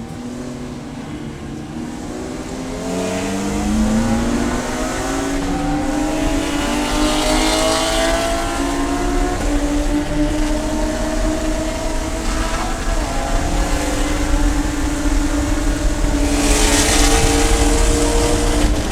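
Race car engine accelerating: its note climbs steadily for several seconds, then holds at high revs, with a rushing hiss coming and going twice.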